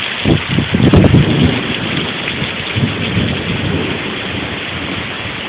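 Heavy rain pouring steadily in a storm, with a loud low rumbling starting just after the rain begins and a weaker rumble about three seconds in.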